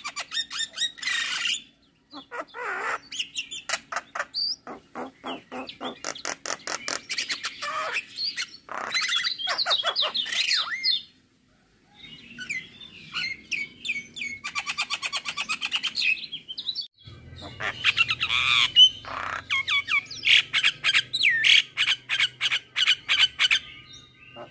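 Male Javan myna singing a long, varied song of rapid rattling clicks, harsh squawks and whistled glides. It breaks off briefly about two seconds in and again near the middle.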